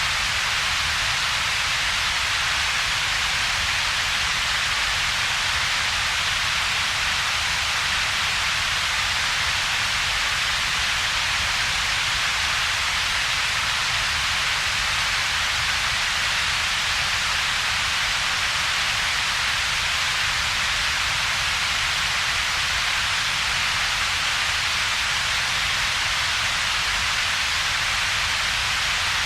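Steady computer-generated double-peaked noise ('ultraviolet-yellow' noise): a constant hiss strongest in the upper middle, with a weaker low rumble beneath and a gap between the two.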